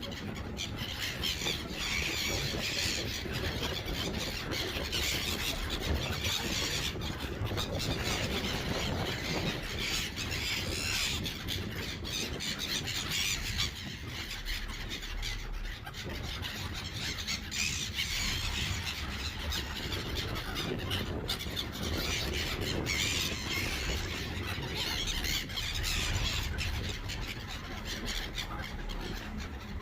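A flock of gulls calling and squealing over one another without a break, rising and falling in waves, over a low steady rumble.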